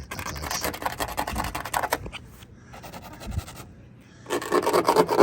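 Rough scraping in two bouts of rapid strokes: one lasting about two seconds at the start, and a louder one near the end.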